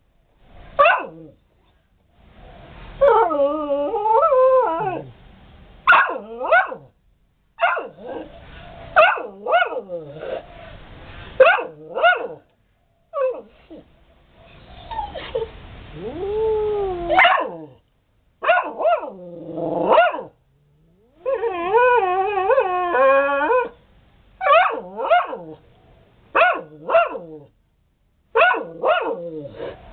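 A dog barking in short, sharp barks again and again, broken up by a few longer wavering, warbling cries.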